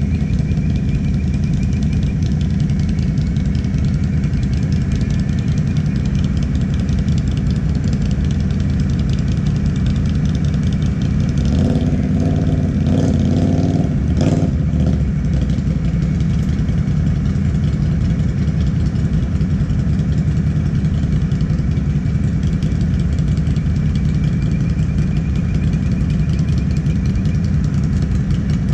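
ATV engine idling steadily. A few seconds of louder, rougher engine or machinery sound come about halfway through.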